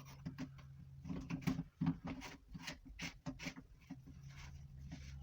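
Clicks and knocks of PVC drain pipe and plastic fittings being handled, a busy run of them from about one to four seconds in.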